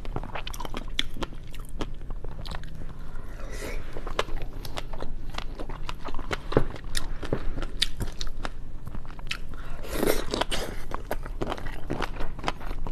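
Close-miked chewing and biting of seafood, with many sharp crunches and clicks, and a longer, louder crackling stretch about ten seconds in.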